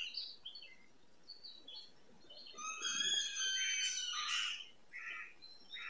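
Birds chirping faintly in the background: a few scattered chirps, then a busier run of high trills in the middle.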